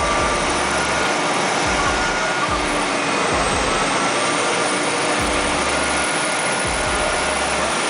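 Heavy equipment running with a loud, steady rushing noise, with low rumbles coming and going.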